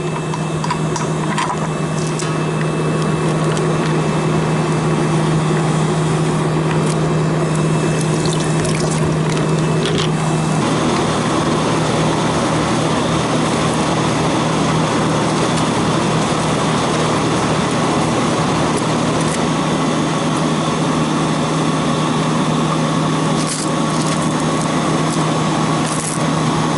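Refrigerant recovery machine running steadily while reclaiming R-409 from the system: a constant low hum under an even rushing noise. About ten seconds in the hum drops out and the rushing grows fuller.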